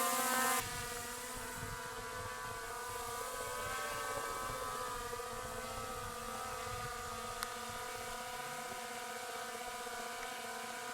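Drone's propeller motors humming steadily with a pitched whine. The level drops abruptly about half a second in, and there is one short click about seven seconds in.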